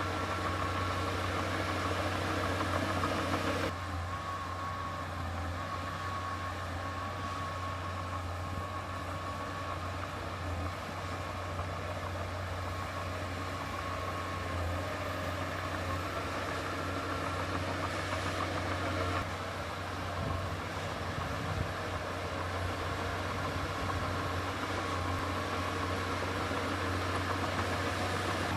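Heavy diesel engine of earthmoving machinery running steadily, with a deep drone under a thin, steady whine. It eases off slightly about four seconds in.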